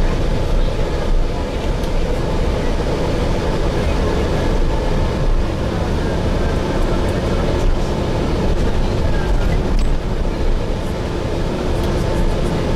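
Steady low rumble of a Gillig Phantom transit bus under way, heard from inside the cabin, with faint passenger voices in the background.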